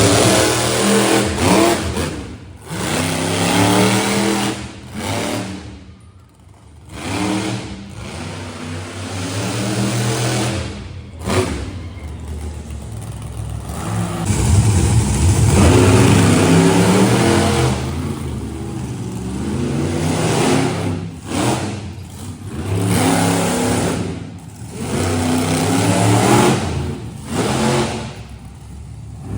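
Monster truck engine revving hard in repeated surges, the pitch climbing and falling with short drops in between.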